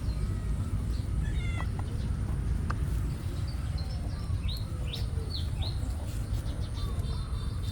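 Short high-pitched animal calls, scattered and brief, over a steady low rumble.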